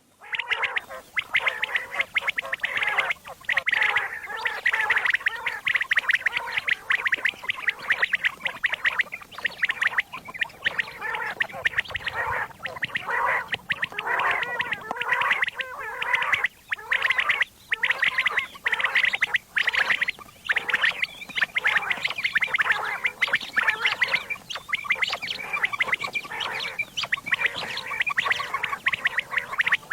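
Common quail calling: a dense, continuous run of quick, overlapping calls with only brief gaps.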